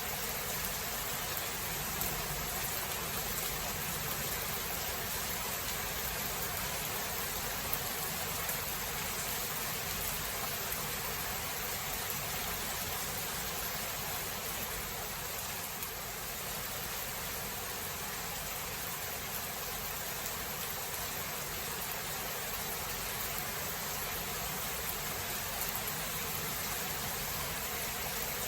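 Steady rain, an even hiss with a few faint scattered taps; no thunder stands out.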